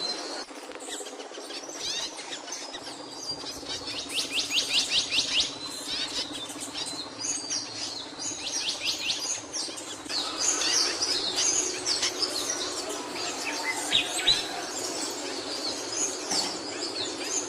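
A capuchino songbird singing: a fast run of repeated rising notes about four seconds in, then varied high chirps and twitters. A steady low hum runs underneath.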